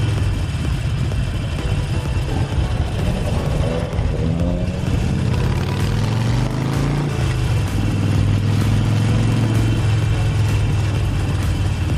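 Harley-Davidson Forty-Eight Sportster's air-cooled V-twin engine running while riding, its pitch rising and falling through acceleration and gear changes in the middle, then holding steady, with a constant wind and road rush.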